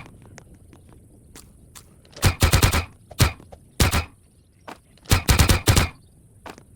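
Campfire burning with steady small crackles and several loud bursts of rapid popping and cracking from the burning wood.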